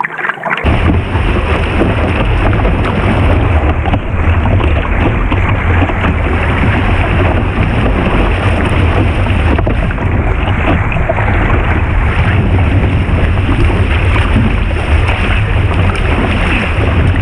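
Rushing whitewater of a river rapid, with heavy wind buffeting on the microphone, starting abruptly about a second in and staying loud and steady.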